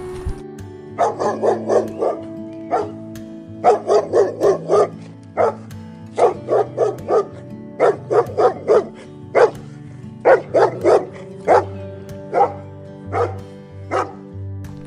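A dog barking over and over in quick runs of several barks, over background music.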